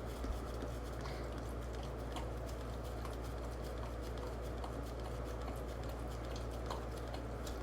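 Coonhound licking at a pup cup: faint, irregular wet tongue clicks and smacks, several a second, over a steady low hum.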